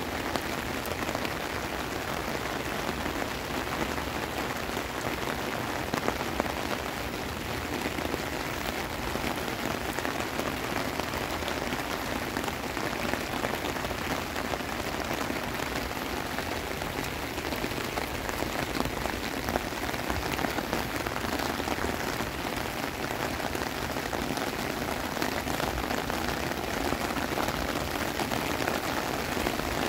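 Heavy rain pouring steadily onto wet pavement and plants: a dense, even hiss with the patter of individual drops.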